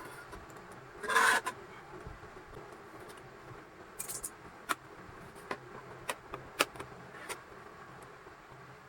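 Handling noises from hand craft work: a short scraping rustle about a second in, then a scattering of light clicks and taps.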